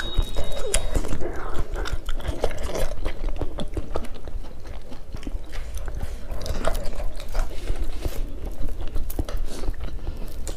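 People chewing mouthfuls of beef and beef-innards curry with rice, eaten by hand: a run of irregular short clicks and small crunches.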